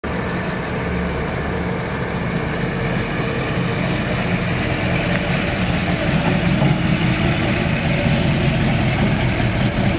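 A 440 cubic-inch Mopar big-block V8 running at idle through a high-performance dual exhaust, a steady low rumble that grows slightly louder about halfway through.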